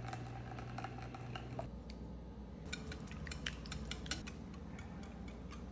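Kitchen utensils clicking and tapping against a bowl in quick, irregular strokes over a low steady hum, with the clicks thickest in the middle.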